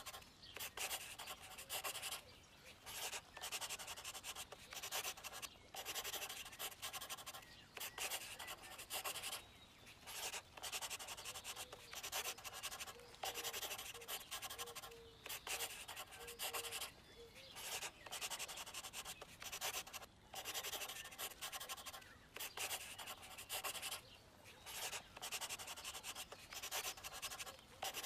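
Marker pen drawing on paper: a long run of short strokes with brief gaps between them, going over an outline.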